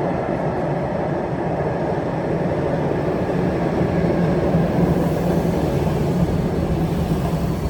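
A tram running along its track: a steady rumble with a low hum underneath.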